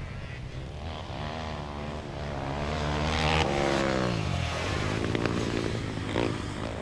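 Flat-track racing quads (ATVs) running hard on the track; one passes close about three to four seconds in, its engine note rising in level and then dropping in pitch as it goes by.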